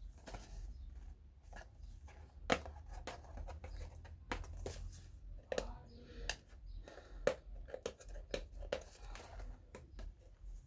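Packaging being handled and torn open by hand: irregular crinkling and tearing with scattered sharp clicks.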